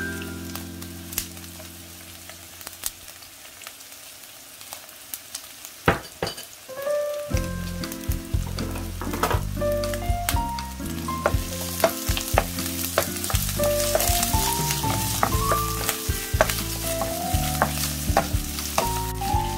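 Pickled onion slices sizzling as they stir-fry in a pan, with clicks of chopsticks and a spatula against the pan as they are turned. The sizzle grows louder about halfway through.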